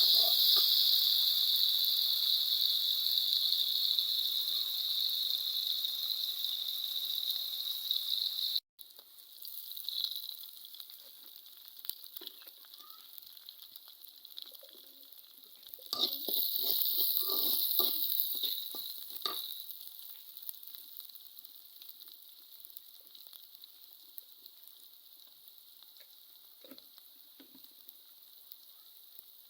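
Food sizzling in hot oil in a pan, with a spatula stirring and scraping. The sizzle breaks off suddenly about a third of the way in. It swells again with a bout of stirring past the middle, then fades to a faint simmer.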